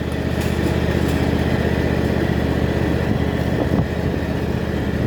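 Small engine of a little-tyred vehicle running steadily at a constant pace as it is ridden.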